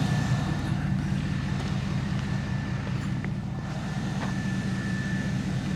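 Truck engine idling steadily: a low, even hum, with a faint steady whine above it.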